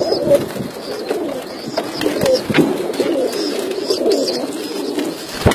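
Many birds calling at once, a continuous overlapping low-pitched warble, with a single sharp knock near the end.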